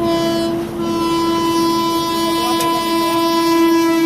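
Vande Bharat Express train horn sounding one long, steady blast, with a brief dip in level under a second in.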